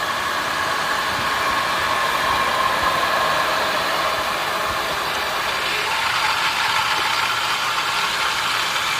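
Well water pump motor running steadily, pushing water through the tank and piping, with a steady whine that drops slightly in pitch about six seconds in.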